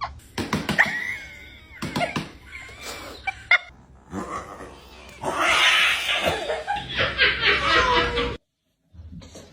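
A domestic cat's calls, with a louder, busier stretch later on, cut off suddenly near the end.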